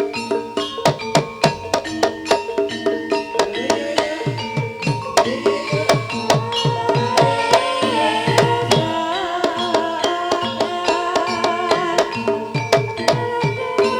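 Javanese gamelan music accompanying an ebeg dance: a steady stream of hand-drum (kendang) strokes, many low strokes bending down in pitch, over a ringing pitched melody.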